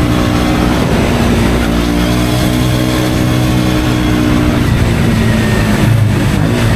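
KTM Duke 125's single-cylinder engine through an Akrapovic exhaust, running under way. Its pitch holds steady, drops about two-thirds of the way in, then climbs again near the end as the throttle changes.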